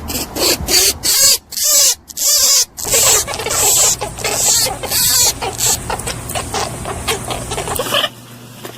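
Rabbit sounds: a quick run of short, hissy bursts, a few a second, which drop to a quieter level near the end.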